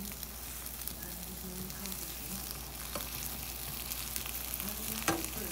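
Grilled cheese sandwiches frying in a hot skillet, the mayonnaise-coated bread sizzling steadily with a fine crackle. A single sharp click near the end.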